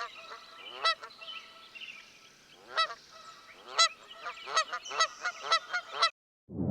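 Geese honking: about a dozen short, nasal calls, coming faster in the second half, over fainter bird chatter. The sound cuts off abruptly about six seconds in.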